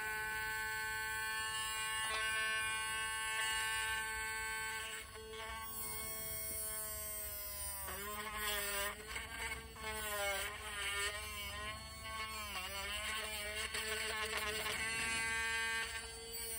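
Small electric drill whining steadily, then drilling a hole into a plastic toy part: from about halfway the motor's pitch dips and recovers repeatedly as the bit bites into the plastic.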